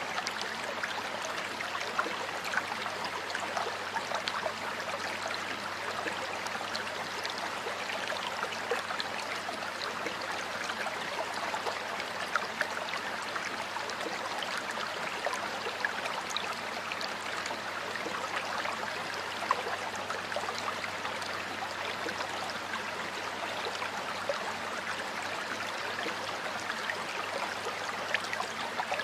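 Water flowing in a stream, a steady rushing with many small splashes and gurgles throughout.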